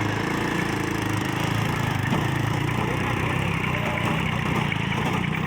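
A vehicle engine running steadily, with a fast even pulse and no change in speed.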